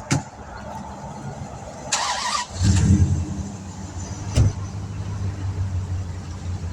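Air compressor starting up about two and a half seconds in, then running steadily to fill its tank for seating the tire bead. Before it there is a click and a short hiss, and a single knock sounds a little after four seconds in.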